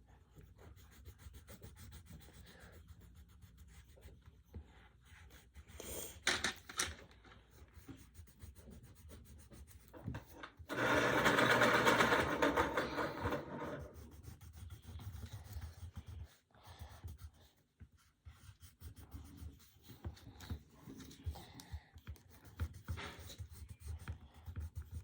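Coloured pencil scribbling and shading on paper: a soft, continuous scratchy rubbing, with a louder stretch of fast back-and-forth shading about eleven seconds in that lasts a couple of seconds.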